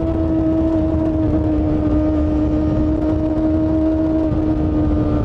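Motorcycle engine running at high, steady revs over a low rumble, its note easing slowly down in pitch.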